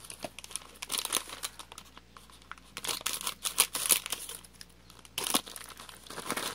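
Snack packaging being crinkled and torn open by hand, an irregular run of crackles and rustles, loudest about three to four seconds in and again just past five seconds.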